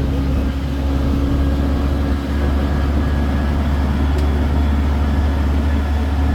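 Road tourist train's engine running with a steady low rumble as it drives along.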